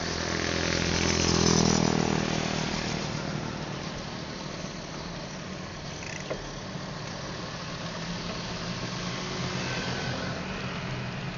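A motor vehicle's engine passes close by, growing louder to a peak in the first two seconds and then fading away, followed by steady traffic and road noise.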